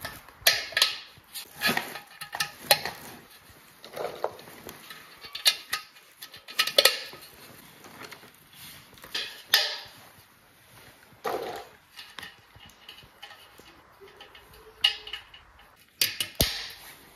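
Irregular clicks and metallic clinks of railing parts being handled and clip fittings pushed into their holes during assembly, some knocks ringing briefly.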